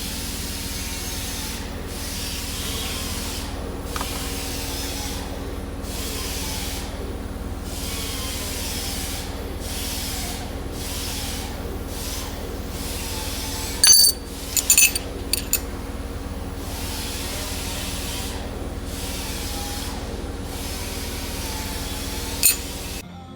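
Steady hum of a workshop tool with repeated brief dips, and a quick cluster of sharp metallic clinks about fourteen seconds in.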